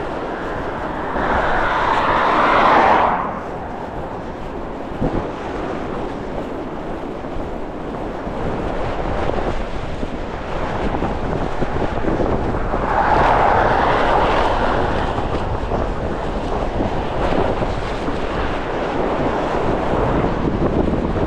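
Strong gusting wind buffeting the microphone with a steady low rumble. Twice, once near the start and again about midway, a louder rushing swell builds for a couple of seconds and then drops away.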